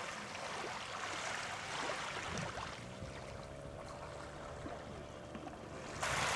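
Small waves washing gently at the shoreline. A faint steady hum joins about three seconds in, and a louder rush of noise comes in just before the end.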